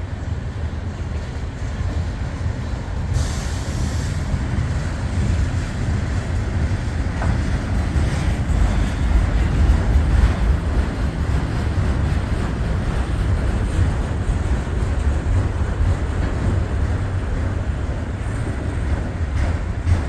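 Norfolk Southern freight cars, mostly empty autoracks, rolling steadily past on the rails, a continuous rumble of wheels and car bodies.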